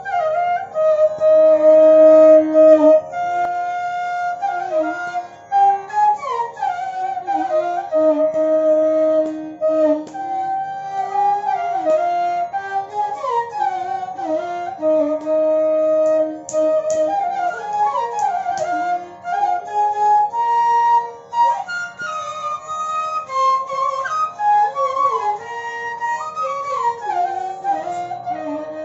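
Instrumental Carnatic-style music: a flute playing a melody with sliding, bending ornaments over a steady drone.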